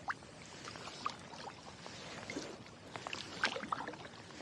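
Kayak paddling: water splashing and trickling off the paddle blades in small, irregular drips and splashes.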